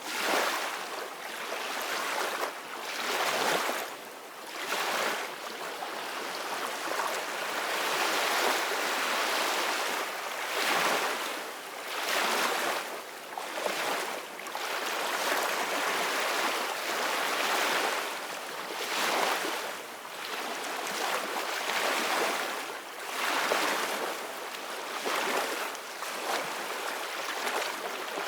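Sea waves washing and splashing, a continuous hiss of water that surges and falls back every second or two.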